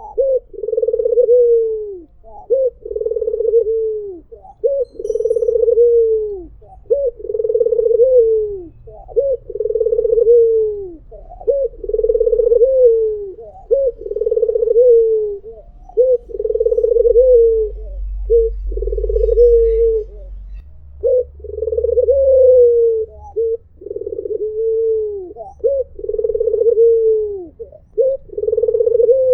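White (albino) Barbary dove cooing over and over: a steady run of rolling coos, about one every second or so, each dropping in pitch at its end, with short clipped notes between them.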